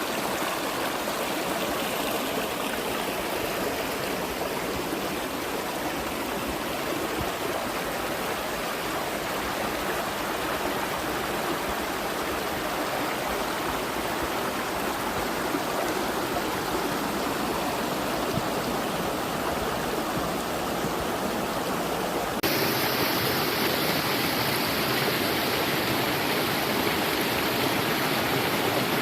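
A stream of running water, flowing steadily. About three-quarters of the way through, the sound changes abruptly to a slightly louder, brighter rush of water.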